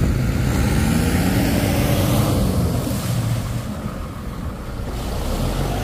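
Engines running and revving up about a second in, over the wash of breaking surf.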